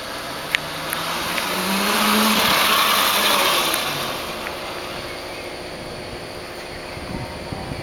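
A road vehicle passes by. A rush of noise swells over about two seconds, peaks, then fades, with a faint low hum rising slightly in pitch as it nears.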